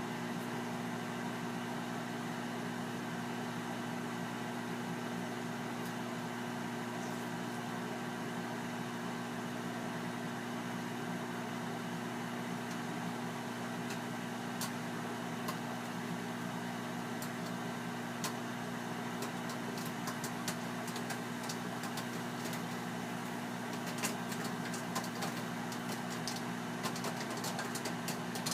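Amana 2100-watt commercial microwave running with a steady hum from its magnetron and fan. From about halfway in, popcorn kernels start popping inside, a few scattered pops at first and then more frequent toward the end.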